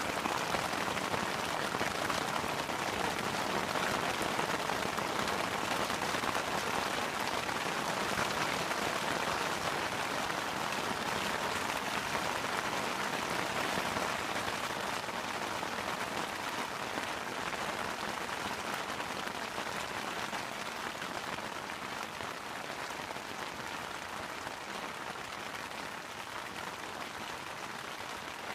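Steady rain falling, a dense patter of drops that eases slightly over the second half.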